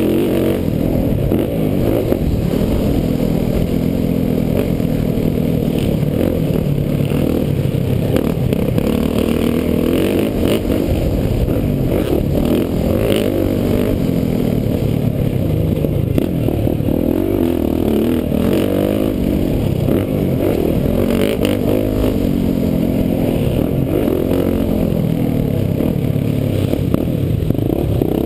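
Motocross bike engine revving up and down through the gears as it is ridden hard round a dirt track, with scattered clicks and clatter over it. It sounds muffled, as heard from a camera mounted on the bike.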